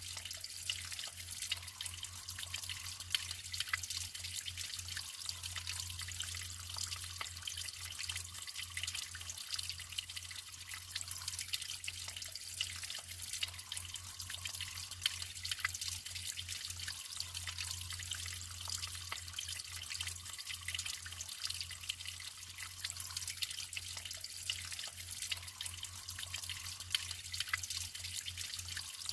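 Natural running water trickling and splashing: many small drips and splashes over a steady high hiss, with a low steady hum underneath.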